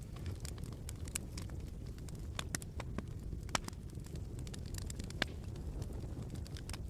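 Wood fire crackling in a fireplace: irregular sharp pops and snaps over a steady low rumble of burning, with a couple of louder pops past the middle.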